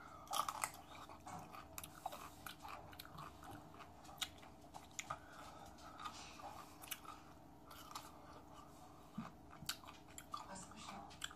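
Whole pickle bitten into and chewed: a crunchy bite about half a second in, then wet crunching and chewing with many small clicks.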